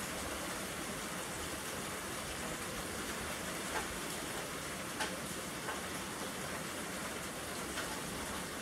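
Steady rain falling, with a few sharp louder drops hitting a surface about midway through and near the end.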